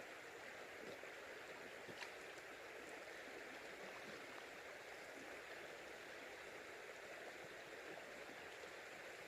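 Faint, steady rush of flowing river water, with one small click about two seconds in.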